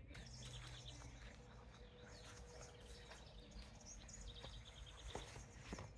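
Faint outdoor ambience: small birds chirping in short repeated notes over a low steady rumble, with a few soft clicks near the end.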